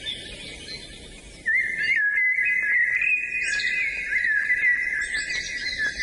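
Birdsong: a loud, continuous warbling song comes in about a second and a half in, with fainter, higher chirping from other birds behind it.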